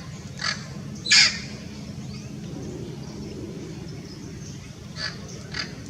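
Amazon parrot giving short, harsh squawks: two about half a second apart near the start, the second the loudest, then two more near the end.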